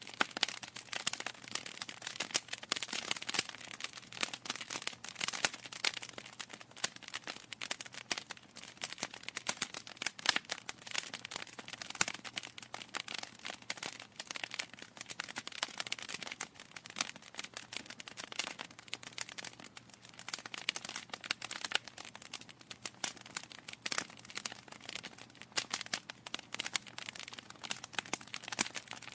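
Wood fire in a fireplace crackling: a dense, unbroken run of small pops and snaps from burning logs.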